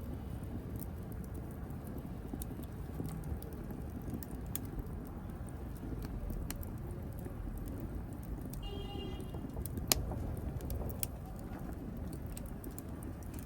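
Wood fire in a fireplace burning with a steady low rumble and irregular sharp crackles, with one loud pop about ten seconds in. Shortly before the pop there is a brief high whistle.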